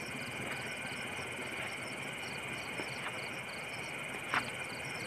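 Insects chirping: a steady high hum with a quick, regular row of high chirps over it, and a few short clicks, the sharpest about four seconds in.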